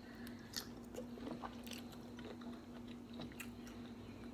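Faint chewing and mouth sounds while eating, with a few soft scattered clicks and crunches over a steady low hum.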